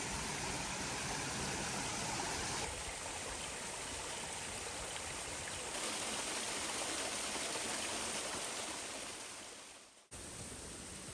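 Mountain stream running: a steady rush of water whose character shifts abruptly about three and six seconds in, then fades out just before the end and gives way to a quieter background.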